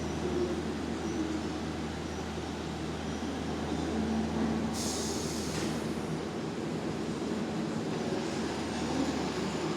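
New York City subway train sound in an underground station: a steady low hum, with a short burst of high hiss about five seconds in.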